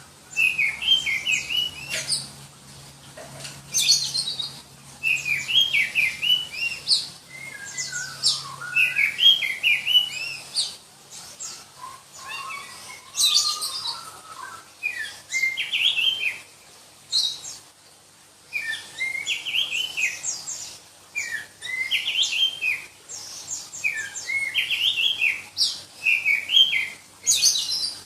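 Black-breasted Oriental magpie-robin (kacer dada hitam) singing: loud, shrill phrases of quick warbled notes with piercing high notes, repeated every second or two with short pauses. A couple of lower, slurred phrases come about a third of the way and halfway through.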